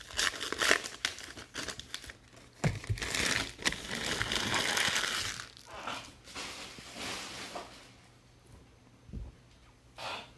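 Trading card pack wrappers being torn open and crinkled by hand, with card handling; the crinkling is busiest over the first six seconds and dies down to quieter handling, with a couple of soft thumps.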